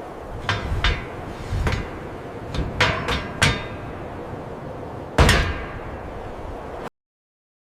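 A series of sharp knocks and taps of hard objects struck together, about eight in all at irregular spacing, the one about five seconds in the loudest. The sound cuts off abruptly near the end.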